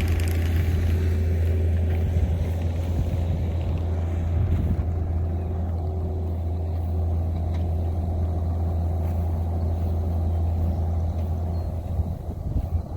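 An engine running steadily with a strong low rumble; the higher part of its sound fades about five seconds in.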